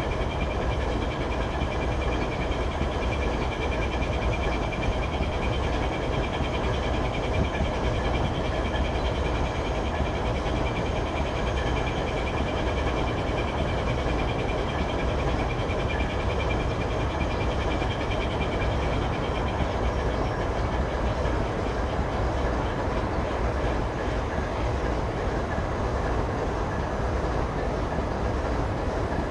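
Freight train rumbling steadily, with faint high-pitched tones above the rumble.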